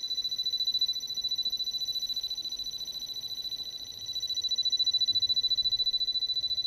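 A steady, high-pitched electronic beep tone, held without a break, dipping slightly in level about three to four seconds in.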